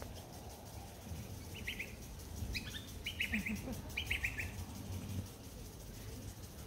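A bird calling in quick runs of three or four high chirps, four runs in about three seconds, over a low steady rumble.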